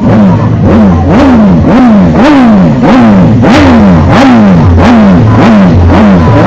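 Motorcycle engine revved over and over in quick throttle blips, about one and a half a second, each one rising sharply and falling back, very loud.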